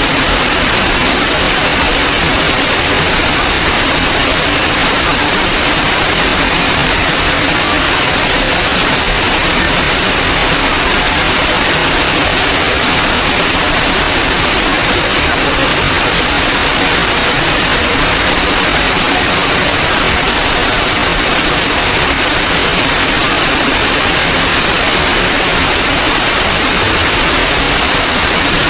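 Small waterfall's water rushing: a loud, steady, even hiss that does not change.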